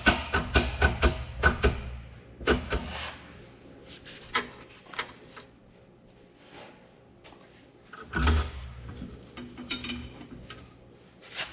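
Shop press working a gear onto a new camshaft: rapid clicking over a low rumble for the first second and a half or so, then scattered metal clinks and a thump about eight seconds in.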